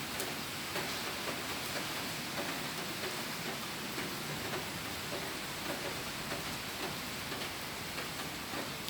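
Steady rain: an even hiss with scattered small drop taps.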